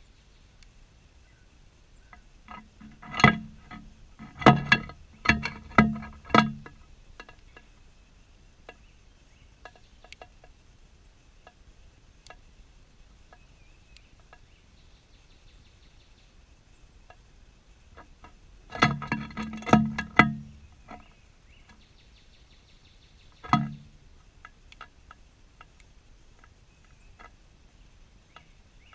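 Flurries of sharp taps and knocks right at the camera, as of birds pecking close to it: a burst of several knocks a few seconds in, another about twenty seconds in, then a single knock.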